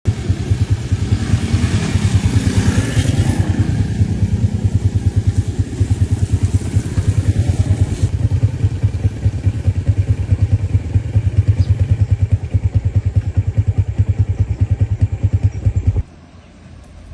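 Small engine idling close by, a steady rapid low putter that cuts off suddenly near the end.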